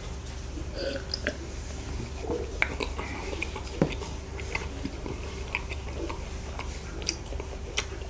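Close-up mouth sounds of a man eating soboro bread: a swallow of milk, then chewing with scattered small wet clicks and smacks.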